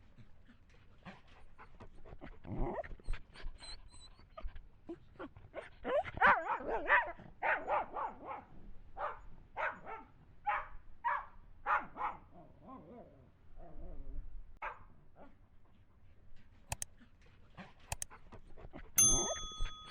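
Small dog barking in a quick, irregular series of short, sharp yaps, loudest and most rapid about six to twelve seconds in. Near the end there are two sharp clicks and a brief steady high tone.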